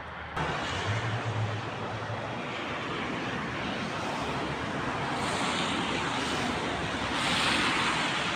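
Wind rushing over a phone's microphone in blowing snow: a steady hiss that comes up abruptly about half a second in and swells near the end.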